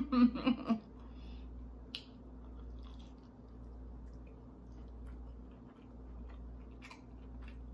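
Close-up eating of a battered deep-fried lobster tail: a few soft mouth clicks and crunches of biting and chewing over a steady low hum.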